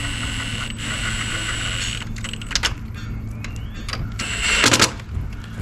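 A small electric power tool's motor whines steadily, then cuts off about two seconds in. Knocks follow, then a louder scraping rattle near the end, all over a low steady hum.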